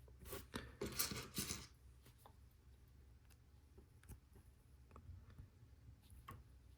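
Plastic Lego Technic pieces clattering and clicking as they are handled, a short burst of rattling in the first second or two, then a few faint single clicks.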